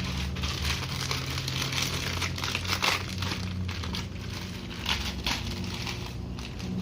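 Plastic wrapper being crinkled and handled in a string of irregular crackles, over a steady low hum.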